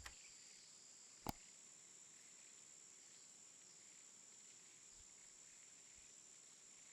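Near silence: a faint steady high-pitched hiss or drone, with one sharp click about a second in.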